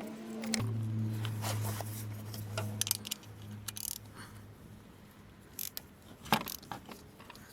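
Scattered metallic clicks and clinks of hand tools and parts being handled, with a low steady hum through the first half.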